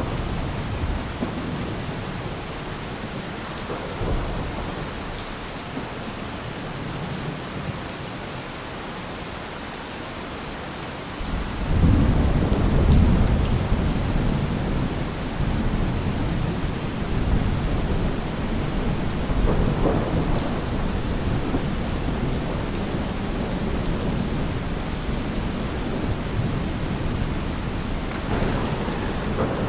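Steady rain with thunder. A deep roll of thunder comes in suddenly about a third of the way through and keeps rumbling, with lighter swells later.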